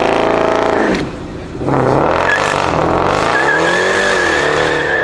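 Sports car engine revving hard, dropping off briefly about a second in, then rising and falling in pitch under throttle, with a steady high tyre squeal through the second half.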